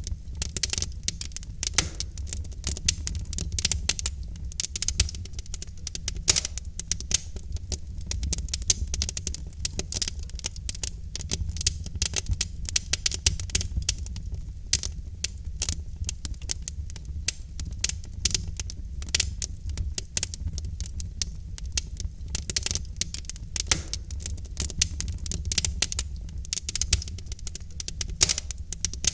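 Wood fire of burning logs crackling and popping in a fireplace: dense, irregular snaps over a steady low rumble of the flames.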